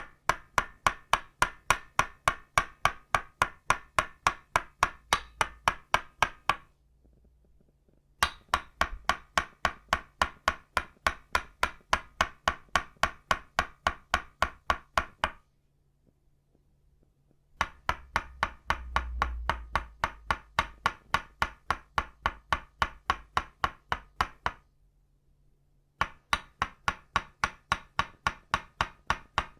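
Tok-sen: an itauba wood mallet tapping a wooden stake in a quick, even rhythm of about four to five knocks a second. The tapping comes in four runs, each stopping for a second or two before it starts again.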